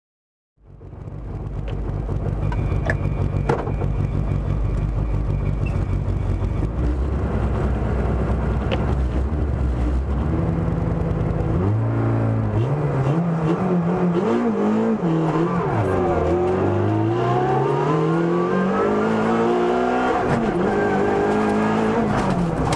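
Opel Kadett E GSI 16V's 2.0-litre sixteen-valve four-cylinder engine heard from inside the cabin, idling steadily at first. About halfway through the car pulls away, and the revs climb and drop back several times as it accelerates and changes gear.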